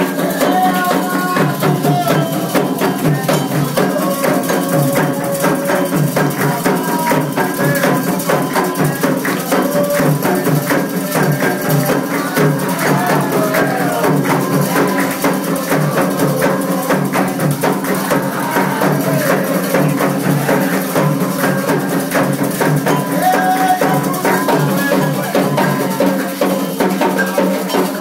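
Candomblé ritual music: atabaque hand drums and a struck metal bell beating a steady, driving rhythm, with a shaker and voices singing over it.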